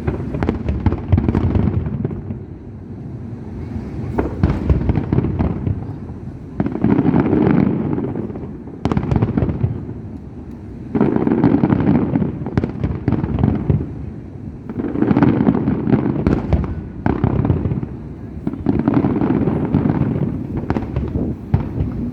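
Fireworks display: dense volleys of bangs and crackling that swell in waves every few seconds, with short lulls between.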